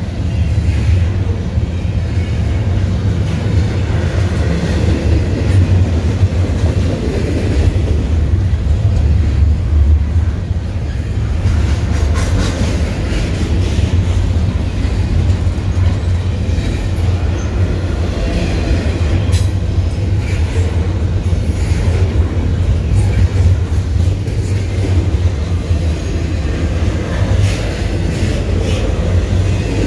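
Double-stack intermodal container train rolling past at speed: a steady, loud low rumble of the well cars, with occasional sharp wheel clicks.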